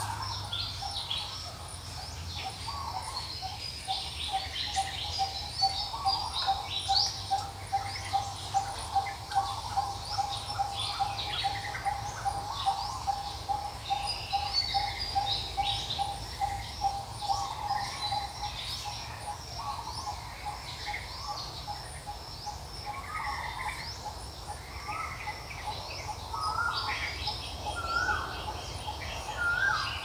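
Several birds chirping and calling, with one low note repeated quickly for about fifteen seconds from a few seconds in, over a faint low hum.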